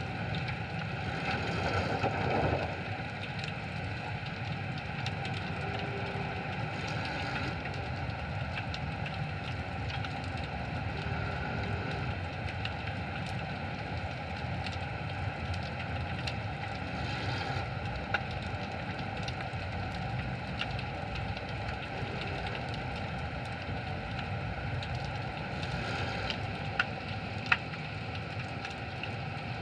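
Underwater ambient sound picked up through a camera housing while freediving: a steady hiss with a low hum and faint crackling. The hiss swells briefly a second or two in and again midway, and a few sharp clicks come near the end.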